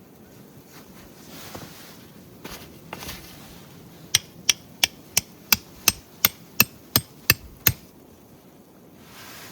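A hammer striking in a quick even series of about eleven blows, roughly three a second, each with a sharp metallic ring, after a few softer knocks.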